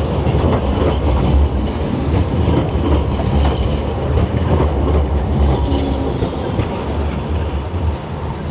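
A tram passing close by: a loud, steady rumble of steel wheels running on rails.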